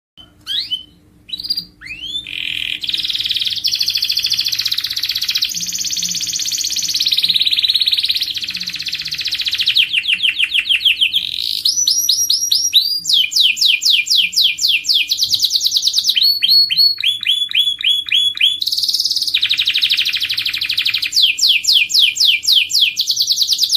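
Domestic canary singing a long unbroken song of rapid trills and rolls, fast repeated notes sweeping down in pitch, switching to a new phrase every second or two. A faint steady low hum runs underneath.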